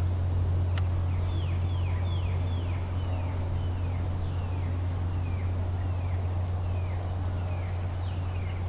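A bird calling a long string of short, falling notes, about two a second, over a steady low hum; a single sharp click comes near the start.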